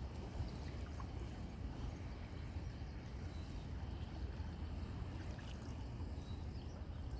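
Seaside ambience: a steady low rumble of sea and open-air noise, with a few faint small ticks.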